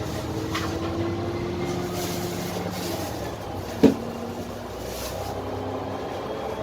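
Dennis Trident double-decker bus on the move, heard from inside: its Cummins ISMe diesel engine and Voith DIWA gearbox running with a steady drone and a whine that rises slowly. A single sharp knock about four seconds in.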